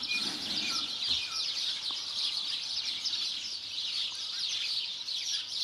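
Dense chorus of many small birds chirping rapidly and continuously in garden trees, with a few short, lower clear notes in the first two seconds.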